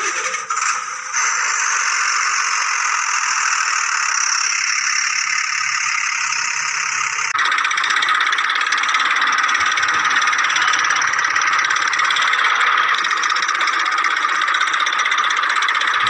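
Toy-vehicle engine noise: a steady, thin rattling drone with almost no bass. It breaks off briefly near the start and changes slightly about seven seconds in.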